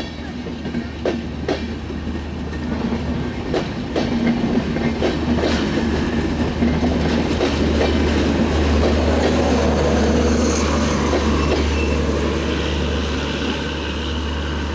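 Passenger train's carriages rolling along the track, wheels clicking over the rail joints over a steady low rumble that grows louder toward the middle and eases slightly near the end.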